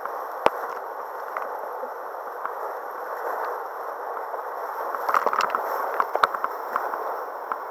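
River water rushing and gurgling around a kayak, with sharp splashes and knocks, a strong one about half a second in and a cluster of them about five to six and a half seconds in.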